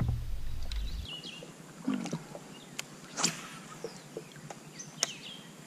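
Faint scattered knocks and clicks of gear being handled in a kayak, with a few short high chirps.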